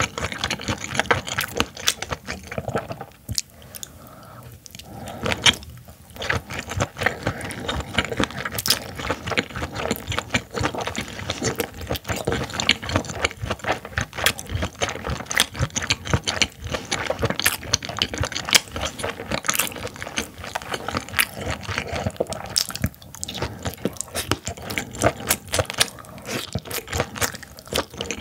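Close-miked chewing of steamed baby ear squid: a steady run of wet clicks and smacks from the mouth, softer for a moment a few seconds in.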